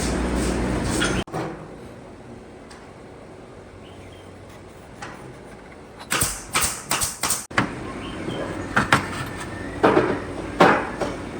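Sharp knocks and taps from woodworking: a steady running sound cuts off about a second in, then a quick run of five or so knocks about six seconds in, and a few more near the end.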